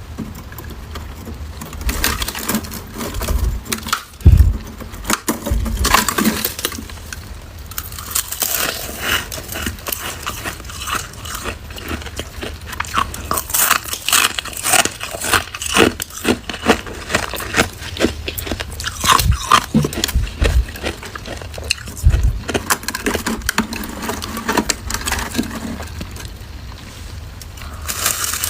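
Freezer frost being bitten and chewed close to the microphone: many irregular, sharp crunches with a few low thumps.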